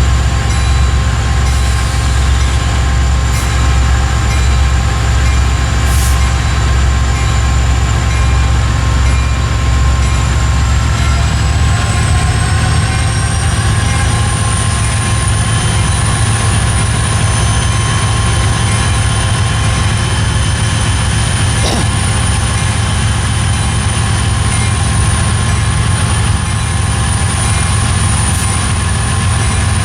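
Norfolk Southern train rolling by: a steady, loud low rumble with high steady squealing tones from the wheels, one of which climbs in pitch about a third of the way through.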